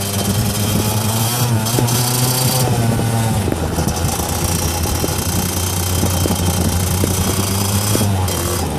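Small engine running steadily, with the revs lifting a little about a second in and settling back after about three seconds.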